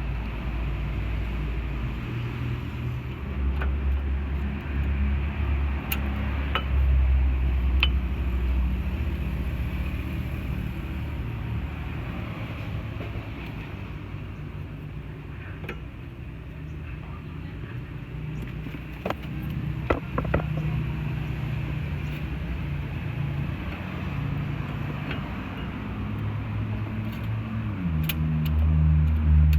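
Low, steady hum of a vehicle engine running, its pitch stepping up and down now and then, with a few short, sharp metallic clicks of brake parts being handled as the pads are refitted.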